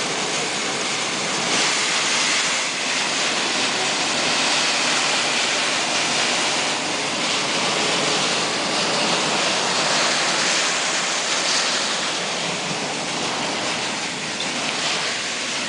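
Heavy storm downpour of rain mixed with hail, falling as a steady, dense hiss.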